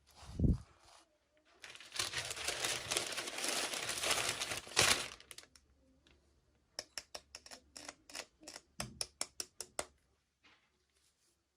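Toy packaging being handled: a soft thump, then plastic crinkling and tearing for about three seconds, followed by a run of quick light clicks, about four a second.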